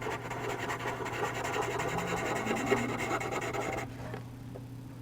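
Soft charcoal pencil scratching rapidly back and forth on charcoal paper, shading a dark area. The fast strokes stop a little before four seconds in.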